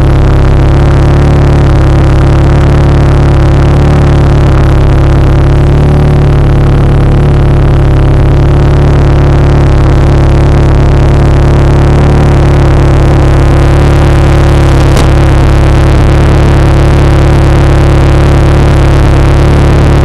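Turbocharged Honda S2000's inline-four idling steadily, giving a loud, even, deep exhaust drone.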